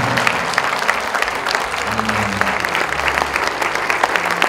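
A crowd applauding: dense, irregular hand claps throughout, with low sustained music tones underneath.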